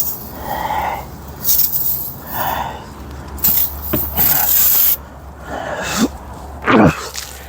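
Pressure washer spraying in repeated bursts of hiss, about a second each, with a longer burst in the middle, over a low steady hum.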